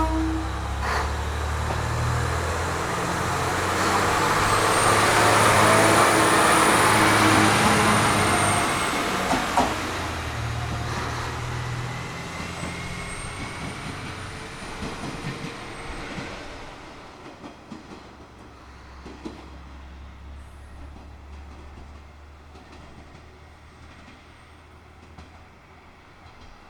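JR Shikoku 1500-series single-car diesel railcar pulling away: the engine runs under load with a low rumble that steps in pitch. Wheel and rail noise builds to a peak about five to nine seconds in, with a faint high squeal, then fades as the railcar recedes. The tail of a short horn blast sounds right at the start.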